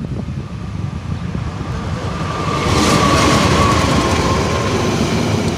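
Locomotive-hauled train running with a steady low rumble that grows louder about two and a half seconds in, with a thin high steady tone over the middle part.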